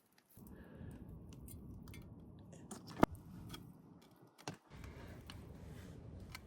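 Hands squishing and rolling a raw ground-meat mixture into meatballs, with a sharp click about three seconds in.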